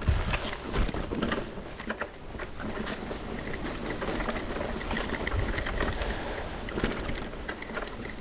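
Mountain bike and rider moving over a rough dirt trail: scattered clicks, scuffs and crackle, with a low rumble of wind on the microphone.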